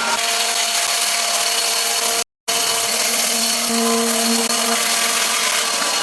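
Electric power tool running steadily under load, a steady whine over a loud hiss, with a brief dead-silent break a little over two seconds in.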